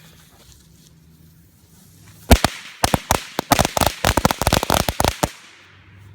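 A clump of small firecrackers going off in a rapid, irregular string of sharp bangs, starting about two seconds in and lasting about three seconds, the first bang the loudest.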